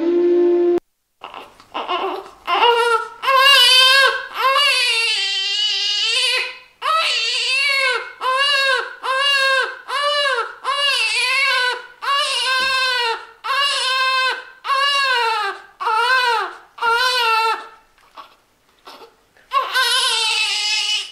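Instrumental music cuts off within the first second, then a baby cries in a string of wails about one a second, each rising and falling in pitch, with a longer wail a few seconds in. The crying breaks off for a moment near the end and starts again.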